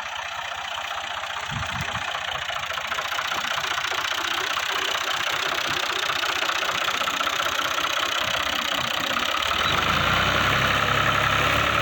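A 480 tractor's diesel engine running steadily, growing slowly louder, with a deeper rumble coming in near the end.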